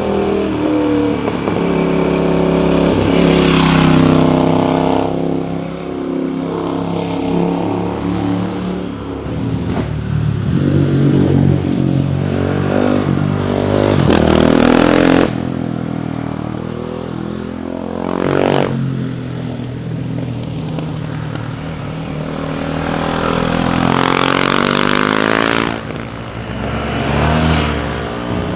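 Sport motorcycles accelerating past one after another, their engines revving up through the gears with pitch climbing and dropping at each shift. The sound changes abruptly several times, about five and fifteen seconds in and near the end.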